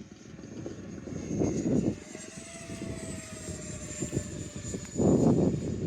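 Small RC model airplane motor whining in flight, its high pitch drifting slowly up and down as the plane moves. Loud low rushing noise breaks in about a second and a half in and again near the end.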